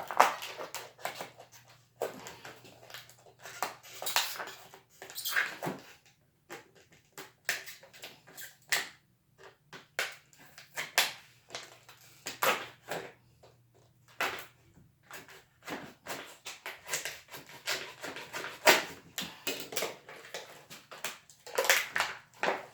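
Packaging being handled and pulled open: irregular crinkling, tearing and clicking with no steady rhythm.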